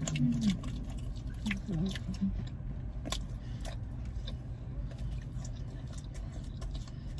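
People chewing and biting into breadsticks close to the microphone: scattered moist mouth clicks and soft crunches, with a couple of short hummed "mm" sounds in the first two seconds, over a steady low car-cabin hum.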